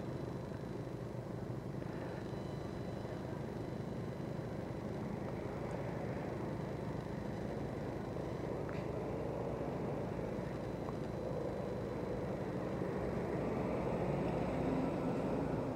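Steady road and wind noise from a moving vehicle, getting a little louder near the end.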